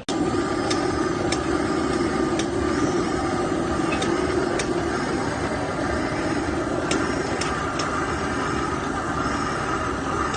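An engine running steadily, with a few sharp clicks at irregular moments.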